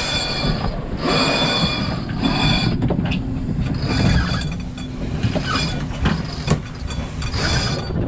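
Sheet winch being cranked during a tack, its pawls ratcheting in several bursts, over wind rumble on the microphone.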